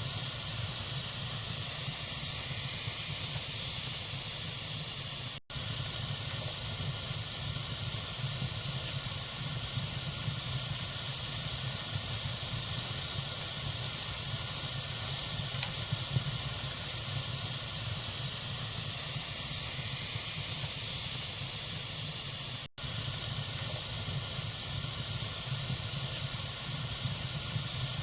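Wood fire burning in a fireplace: a steady hiss with a few small crackles. It cuts out for an instant twice.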